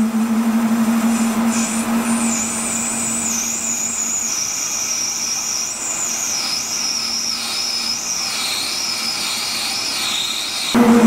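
Machine tool running: a steady motor hum with a thin high whine that wanders and slowly falls in pitch. It changes abruptly and gets louder near the end.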